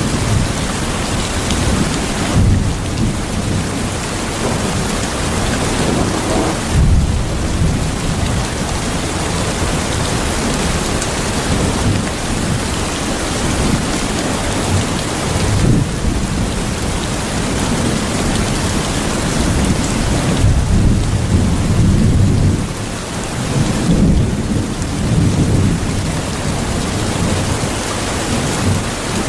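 Steady heavy rain falling, with low rolls of thunder swelling and fading several times.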